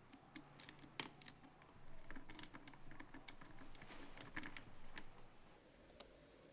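Irregular light clicks and taps, a quick cluster of them from about two to five seconds in, like small hard objects being handled.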